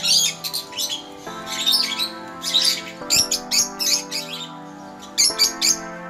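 Birds chirping in short, rapid bursts again and again, over background music of sustained chords that change every second or two.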